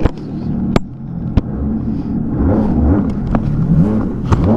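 Jet ski engine running and being revved up and down, its pitch rising and falling repeatedly from about two seconds in and growing louder. A few sharp knocks sound in the first half.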